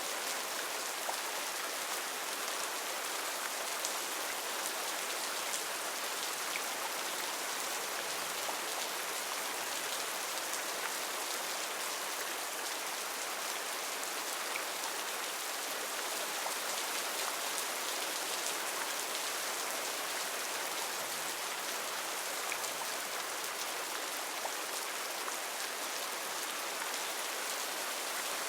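Heavy rain falling steadily, a dense even hiss with scattered drops pattering on leaves.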